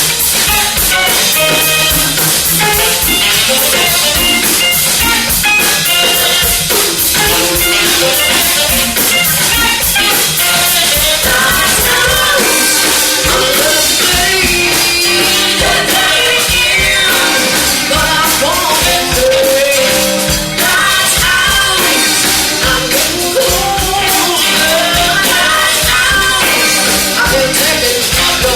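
Live soul band playing an upbeat number with a drum kit, and singers' voices over the band.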